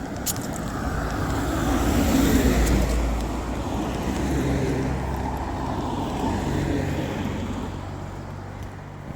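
A motor vehicle passing by, its low rumble swelling to its loudest about two to three seconds in and then slowly fading away.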